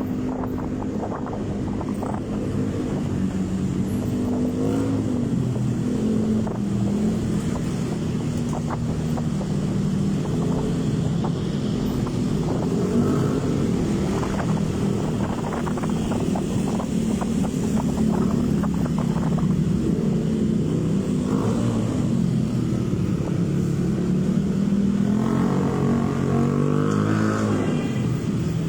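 Motorcycle engine running on the move, its pitch rising and falling as the speed changes.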